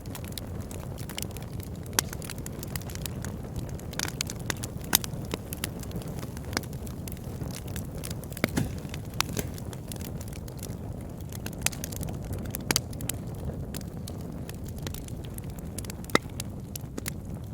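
Wood fire burning in a fireplace: a steady low sound of flames under frequent sharp crackles and pops, with a few louder snaps scattered throughout.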